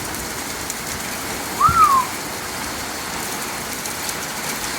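Heavy rain and hail coming down in sheets, a steady hiss with faint sharp ticks of stones striking. About two seconds in comes a brief tone that rises and falls, with a low thump.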